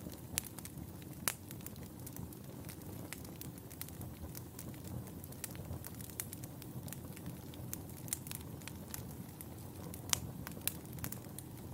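Wood fire burning in a fireplace: a steady low rush under irregular crackles and snaps, with a few louder pops about a second in and again near the end.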